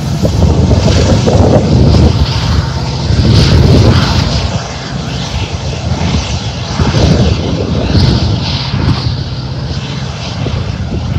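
Freight train rolling past: a loud, steady low rumble that swells and eases every second or two.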